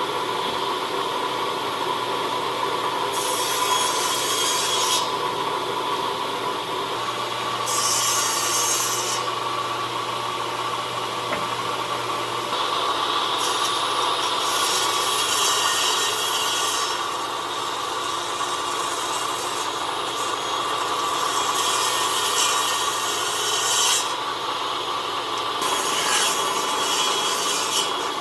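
A power tool's motor runs steadily while the tool works wood in repeated passes, each pass adding a few seconds of hissing abrasion.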